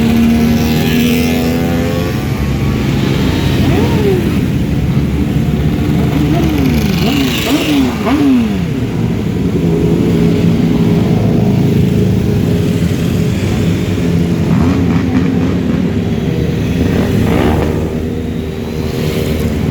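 Motorcycle engines running together in a moving column, with engines revved up and dropped back several times in quick succession about four to eight seconds in.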